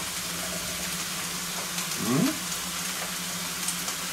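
Food frying with a steady sizzle, over a steady low hum. A short rising vocal sound comes about two seconds in.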